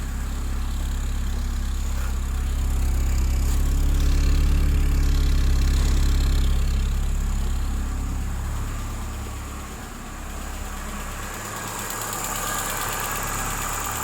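Peugeot 306's 1.6-litre TU5JP (NFZ) petrol inline-four running at idle, a steady low hum. It grows louder for the first few seconds, then eases back about eight to ten seconds in.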